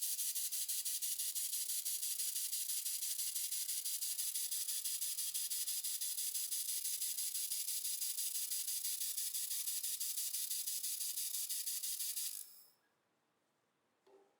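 1500 W wire-fed laser welder running a bead on aluminium with argon shielding: a steady high hiss with a fine rapid pulsing that cuts off sharply about twelve seconds in. A single small tick follows near the end.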